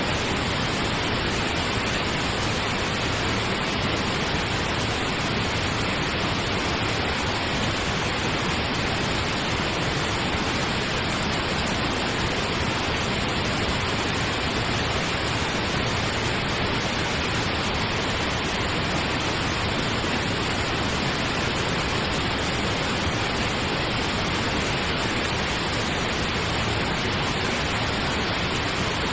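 Steady pink noise: an even, unchanging hiss played as a sleep aid.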